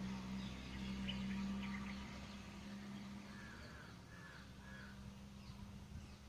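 Birds calling: a few short high chirps, then a quick run of three calls a little over three seconds in, over a steady low hum that fades after about two seconds.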